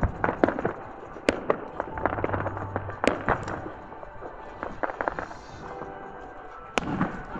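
Aerial firework shells bursting: sharp bangs about a second in, around three seconds in and near the end, with crackling between them.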